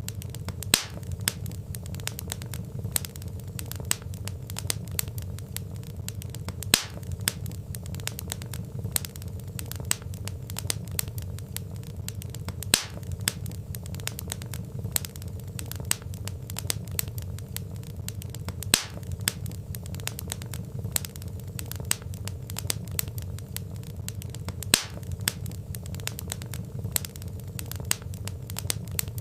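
Wood fire burning in a fireplace: a steady low rumble of flames with frequent small crackles and a sharper pop every few seconds.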